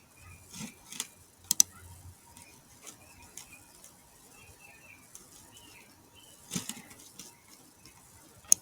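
Scattered clicks of a computer mouse and keyboard, a few close together in the first two seconds and a sharper pair near the end.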